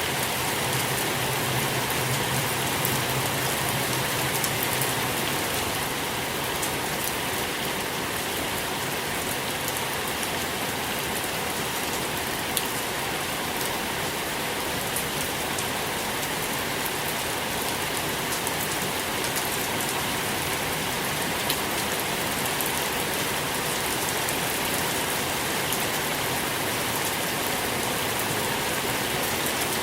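Steady soft rain falling, a continuous hiss with scattered individual drops ticking on a surface.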